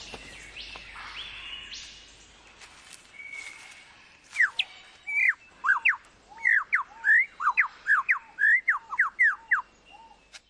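Superb lyrebird singing: after a few seconds of quieter forest bird calls, a rapid run of loud, sharp whistled notes, most sweeping steeply downward, comes about two to three a second.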